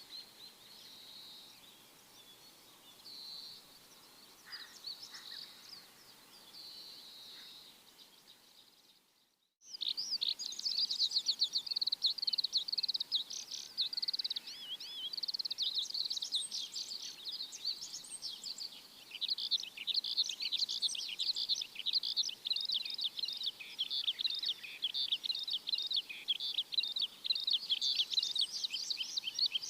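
Birds chirping in high, rapid notes. The chirps are soft at first, break off to silence for about half a second after nine seconds, and then resume as a dense, much louder chorus.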